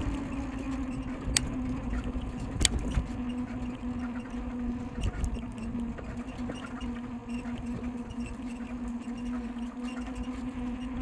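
Bicycle rolling downhill, with wind rumbling on the microphone and a steady whine from the bike, which is squeaky after being left in the rain. A couple of sharp clicks or rattles come about one and a half and two and a half seconds in.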